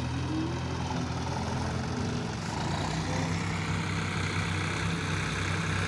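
Heavy diesel engine of a backhoe loader or tractor running steadily, its note changing slightly about three seconds in.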